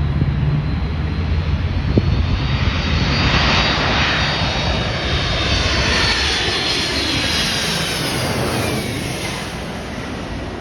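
Jet airliner passing low on its landing approach, its engines running with a high whine. The roar builds to a peak in the middle, then the whine drops in pitch as the plane goes past and fades.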